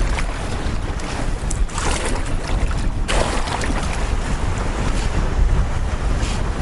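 Strong wind buffeting the microphone over waves splashing around a canoe in rough water, with two sharp slaps about a second and a half and three seconds in.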